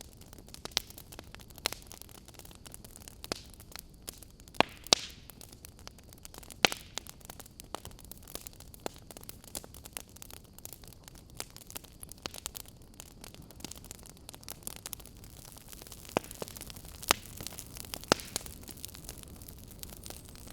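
Wood fire crackling in a fireplace: a steady soft hiss under irregular sharp pops and snaps, a few of them much louder than the rest.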